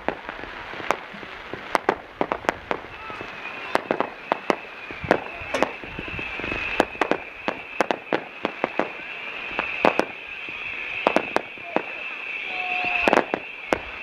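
Aerial fireworks going off in rapid, irregular succession: many sharp bangs and pops, several a second, with a steady high whistling tone that sets in about three seconds in and runs on beneath them.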